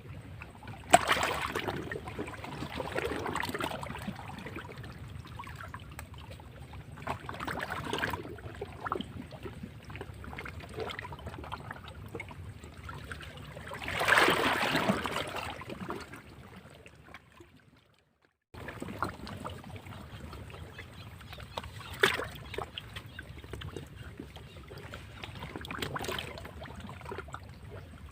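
Sea waves breaking against rocks: a rushing splash of water that swells and ebbs every few seconds, with sharper splashes near the start and about three quarters through, and the biggest surge about halfway through. The sound cuts out completely for about half a second, a little after halfway.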